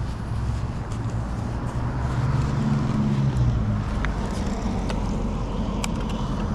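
A motor vehicle engine running: a low hum that swells for a second or so in the middle and then settles back.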